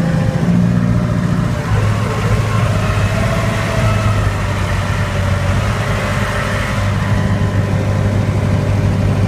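UTB 550 tractor's diesel engine running just after a cold start. Its speed drops a little under two seconds in, then it settles into a steady idle.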